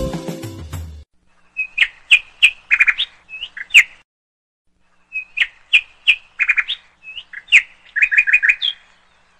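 A songbird singing two bouts of quick chirps and whistled notes, each about three seconds long, after background music stops about a second in.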